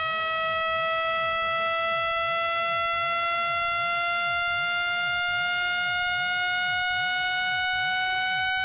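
Electronic speaker-cleaning tone played to shake water and dust out of a phone speaker: one continuous, buzzy tone rich in overtones, rising slowly and steadily in pitch.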